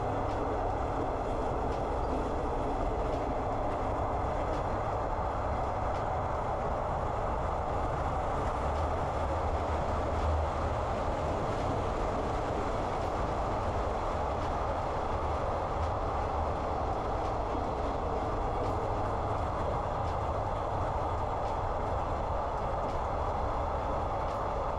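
Steady running noise of a Thai passenger train on the move: a continuous low rumble with wheel-on-rail noise, heard from inside the carriage.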